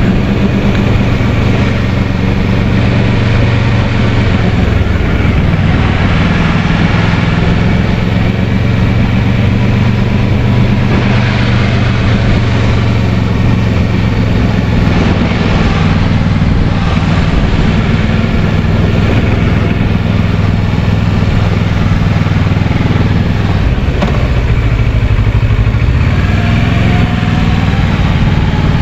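Kawasaki Versys 650's parallel-twin engine running steadily while riding. Its pitch shifts about five seconds in and again near the end as the engine speed changes.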